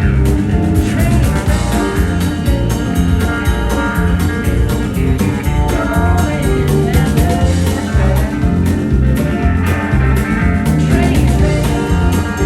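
Live country-rock band playing an instrumental jam: electric guitar lead over bass and a steady drum beat.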